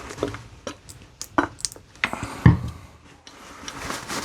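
Handling noise from wiping a metal hand tool down with tissue and hand sanitizer: soft rubbing and rustling with a scatter of sharp clicks and knocks, the loudest about two and a half seconds in.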